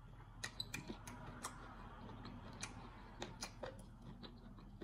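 Faint, close-miked eating sounds: a dozen or so irregular wet clicks and smacks of a mouth chewing soft fufu, with the squish of fufu being pressed by hand into spinach soup.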